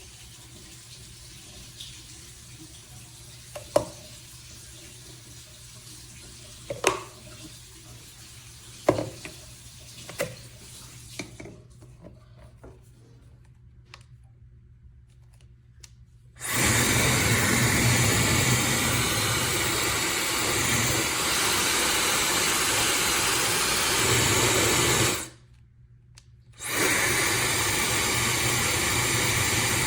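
Handling clicks and knocks, then a Fentgo high-speed brushless hair dryer switched on, blowing with a loud, steady rush of air. It cuts off suddenly near three quarters of the way through and comes back on a second and a half later.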